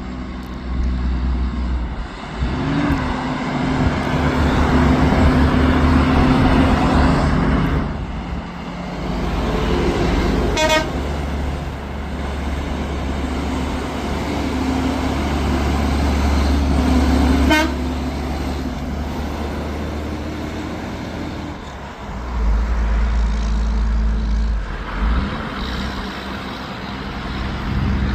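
Heavy truck engines running under load on a climb, their pitch rising and falling with passing traffic, with two short horn toots, one about ten seconds in and another about seven seconds later.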